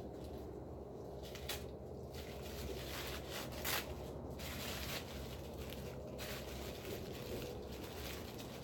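Paper rustling and crinkling as a wrapped item is unwrapped by hand, with a sharper crackle about three and a half seconds in.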